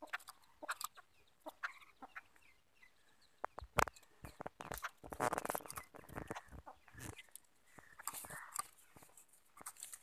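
Caged birds calling: scattered short, harsh, clucking calls and clicks, with one sharp loud click about four seconds in and a quick rattling call a second later.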